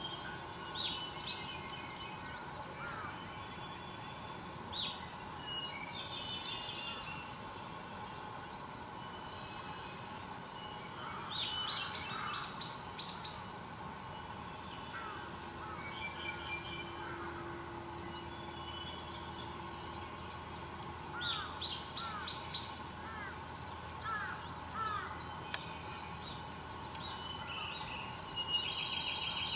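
Several wild birds calling and singing at once: short chirps and trills throughout, with louder runs of quick repeated notes around the middle and again later. A faint steady hum sits underneath.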